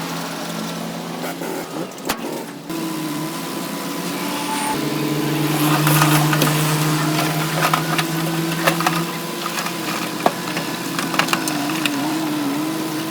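Diesel engine of heavy earthmoving machinery running steadily, with scattered sharp clanks and knocks over it.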